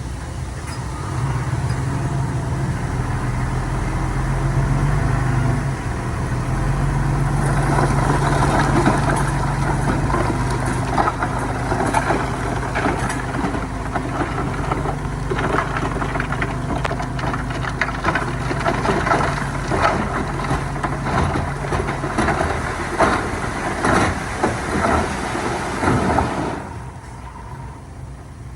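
Heavy diesel earthmoving engine running and revving up in two steps early on, then working under load. Through most of the middle there is a long stretch of crunching and rattling. Near the end the engine drops back sharply.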